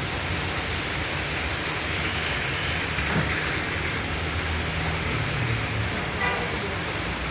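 Steady hiss of heavy rain and running water, with a low hum underneath.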